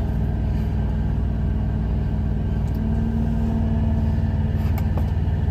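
Truck's diesel engine idling with a steady low rumble, heard inside the cab.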